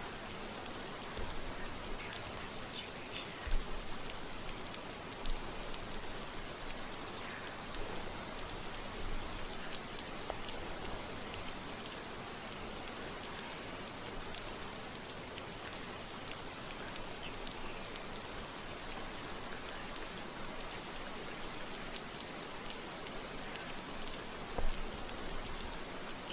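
Steady rain falling, an even hiss throughout, with a few brief soft knocks now and then.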